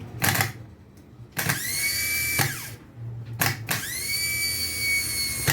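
Freshly repaired Fiat Uno starter motor running free on the bench. A click, then it spins up quickly to a steady high whine, cuts out and winds down in falling pitch, then clicks and runs again. It was overhauled after wear from its front bushing ruined the bendix and brushes.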